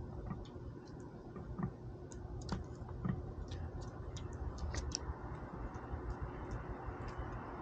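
Squirrel gnawing and cracking nuts: irregular sharp clicks and cracks, bunched together for a few seconds, over a low steady background rumble.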